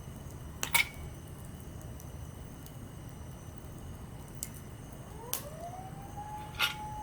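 A wood campfire burning with a low rumble and a few sharp crackling pops, the first the loudest. From about five seconds in, a thin whistle rises in pitch and then holds steady.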